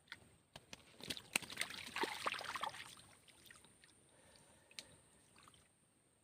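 Water splashing and sloshing with a quick run of sharp clicks and knocks, busiest from about one to three seconds in, then a few faint clicks.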